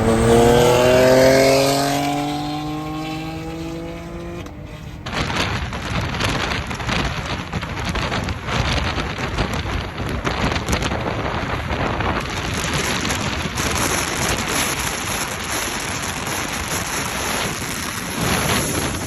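Car engine accelerating, its pitch rising steadily for about four seconds before fading, then an abrupt change to steady road and wind noise from a moving car.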